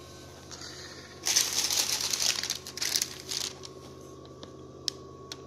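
Beko WMY 81683 washing machine spinning with a steady low hum. About a second in, a loud crackling, rustling noise lasts about two seconds, then two sharp clicks follow near the end.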